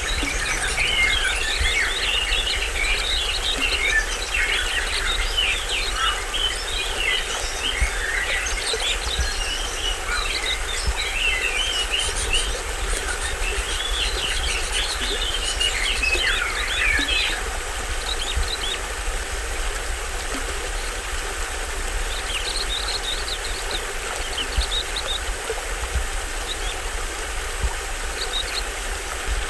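Small stream-fed waterfall rushing steadily, with many birds chirping busily over it; the birdsong thins to occasional chirps a little past halfway.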